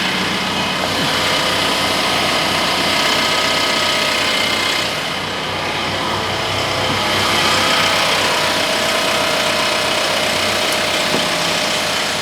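Large diesel farm tractor engine running steadily, dipping slightly in level about five seconds in.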